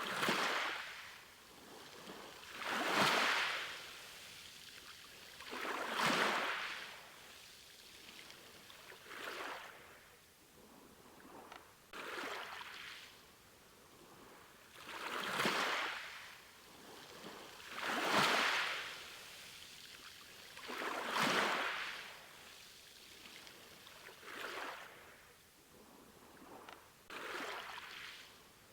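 Sea waves washing onto a shore in a steady rhythm, each surge swelling up and falling away roughly every three seconds.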